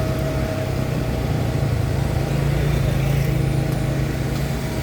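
An engine running steadily with a low hum that swells slightly partway through.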